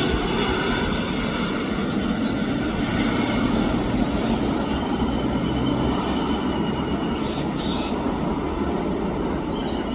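CFM56 turbofan engines of an Airbus A320-214 on its landing, heard as a steady jet rumble with a faint high whine, slowly fading.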